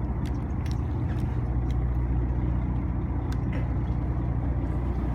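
Boat engine running steadily with a low, even hum, with scattered light clicks over it.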